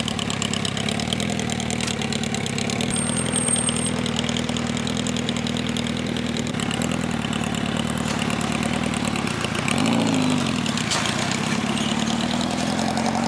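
A car engine idling steadily, with one short rev that rises and falls about ten seconds in.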